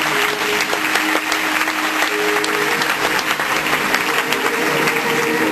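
Audience applauding, many hands clapping at once, over music with steady held notes.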